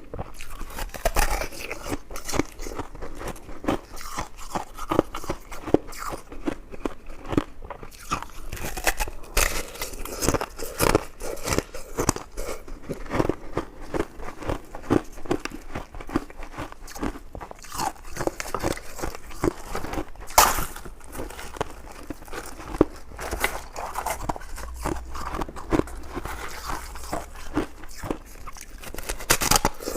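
Close-miked eating: a person biting and chewing, a steady run of short crunchy clicks several times a second, with one louder bite about two-thirds of the way through.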